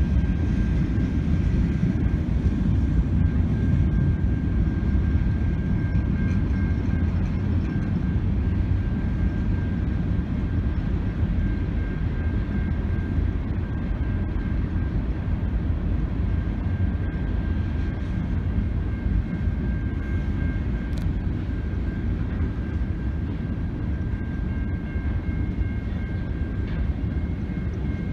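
CN mixed freight train's tank cars and autoracks rolling past at a grade crossing: a steady low rumble of wheels on rail, with a faint steady high-pitched ring over it.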